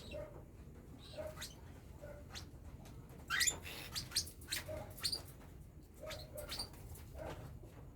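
Cockatiel chicks chirping: short, sharp calls coming irregularly, a few a second, loudest a little past three seconds in.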